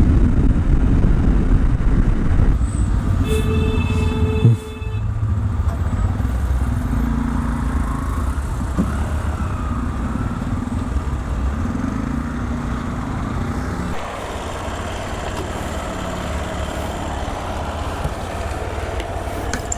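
Road traffic heard from a moving motorcycle: a steady low rumble of engines and wind, with a vehicle horn sounding for about a second a few seconds in.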